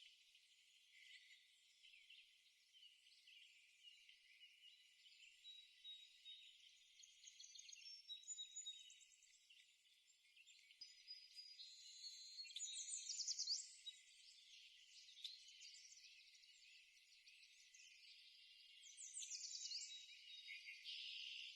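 Songbirds chirping and trilling, faint and thin-sounding, with short whistled notes and quick rapid trills that come louder about halfway through and again near the end.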